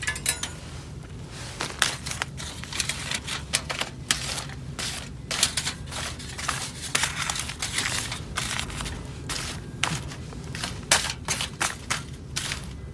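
Camp gear being handled while packing up: a fast, irregular run of clicks, clinks and light knocks.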